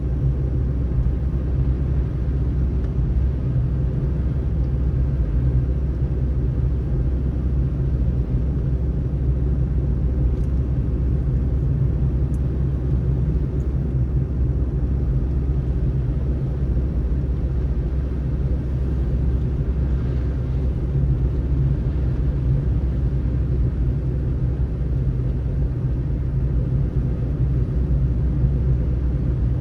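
Steady low rumble of a car driving on a snowy road: tyre and engine noise at a constant pace, with no changes.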